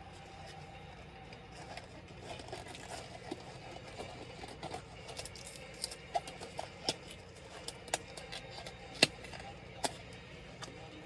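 Scattered small clicks and taps from laptop parts and tools being handled during a disassembly, with sharper clicks from about six seconds in and the loudest about nine seconds in.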